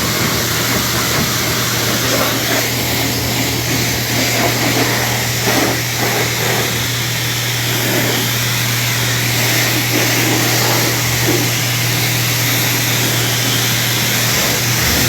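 Self-serve car wash high-pressure wand spraying soapy water: a steady loud hiss with a low steady hum underneath.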